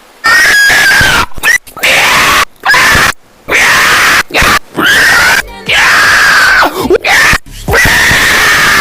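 Very loud, distorted, shrill screaming that starts suddenly and goes on in about seven long shrieks, each cut by a brief break.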